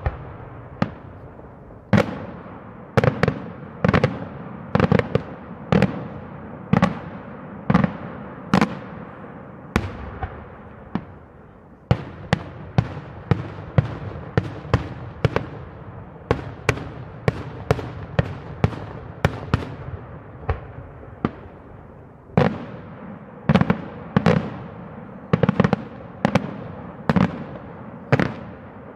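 Daytime aerial fireworks shells bursting in a rapid, irregular run of sharp bangs, about one to two a second, each trailing off in an echo. There is a brief thinner stretch about ten seconds in.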